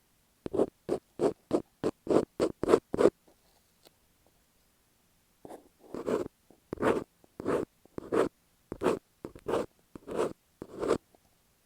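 Scratching strokes over masking tape stuck on an earphone microphone, heard right at the mic. A quick run of about nine strokes, a pause of about two seconds, then slower strokes about every two-thirds of a second.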